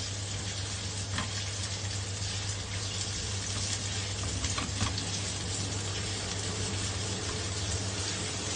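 Garlic and ginger sizzling in hot oil in a wok, stirred with a spatula, with a few short clicks and scrapes of the spatula against the pan.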